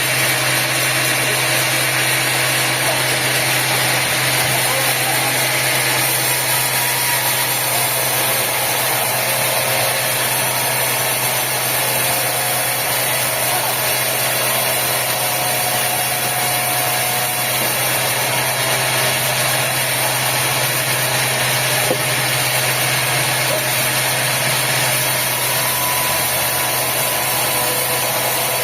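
Sawmill machinery running steadily, a constant engine-like drone and hum with no change in pace.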